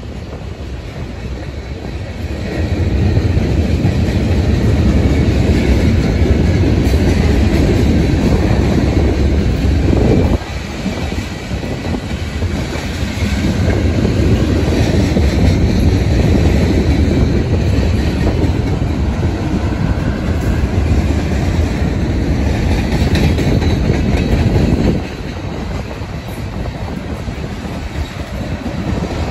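Freight cars of a passing manifest train rolling by at a grade crossing: a loud, continuous rumble of steel wheels on the rails, with sudden drops in level about ten seconds in and again near the end.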